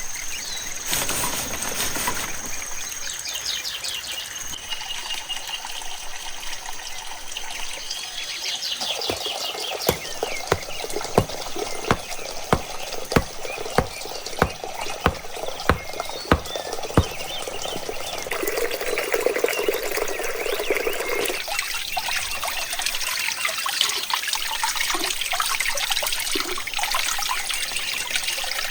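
Water running and trickling, with a run of about a dozen sharp knocks, roughly two a second, in the middle.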